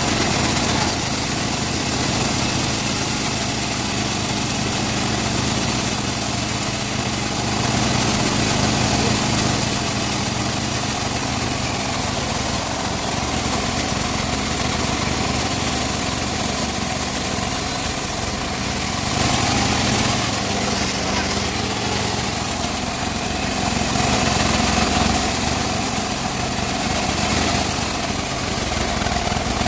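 Engine-driven band sawmill (gergaji selendang) running steadily while sawing teak wood, with small swells in level now and then.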